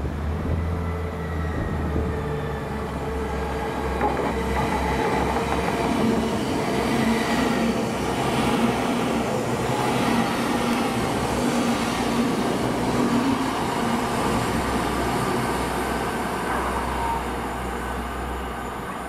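Passenger train running past on the main line: a steady low hum with a few held tones over the rumble of the wheels, loudest through the middle and easing off near the end.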